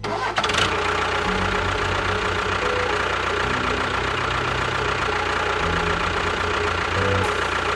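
A motor running steadily with a noisy rattle, its low hum stepping up and down in pitch several times.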